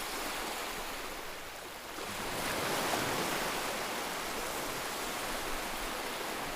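Sea surf washing in, a steady hiss of breaking waves that swells about two seconds in and then eases.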